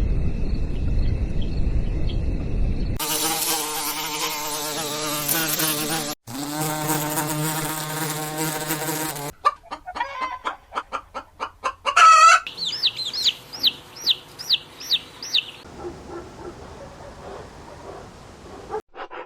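A run of short clips of poultry and insect sounds: a steady insect buzz, then chickens clucking in quick pulses, a loud rising call, and a string of about ten repeated high calls.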